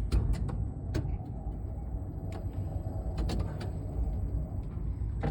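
Strong wind, about 11–12 metres per second, buffeting the tower crane cab as a steady low rumble. Scattered short clicks and knocks sound over it.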